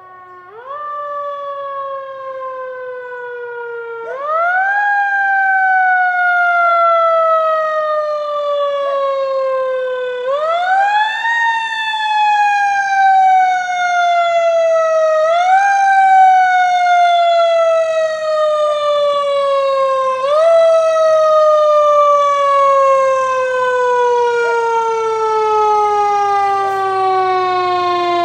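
Fire truck siren wailing. It climbs quickly in pitch about five times, and each climb is followed by a long, slow fall. The last fall is the longest and drifts steadily lower.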